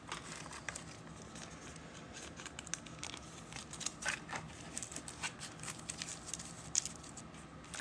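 Faint, scattered clicks and crinkles of sports trading cards and foil pack wrappers being handled and opened, with a few sharper clicks about halfway through and near the end.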